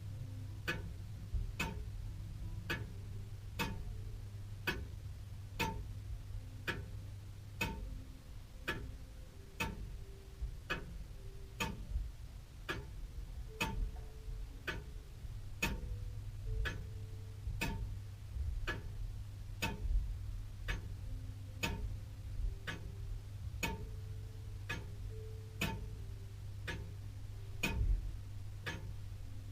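Antique William Holliwell of Liverpool clock ticking steadily, about one tick a second, over a low steady hum.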